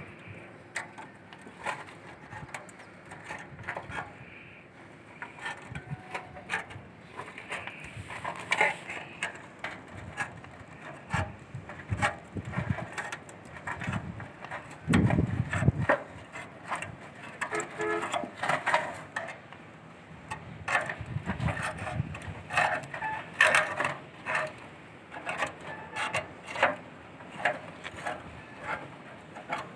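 Irregular knocks and clicks of wood being handled and tapped, with a couple of heavier thumps about halfway through and again a few seconds later.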